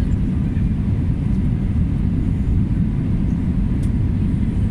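Airbus A320 landing, heard as a steady, dense low rumble.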